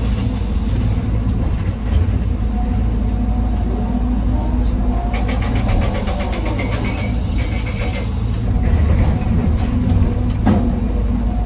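Heavy diesel machinery running steadily, from the excavator loading stone into a dump truck, with a fast rattle in the middle and a single sharp knock near the end.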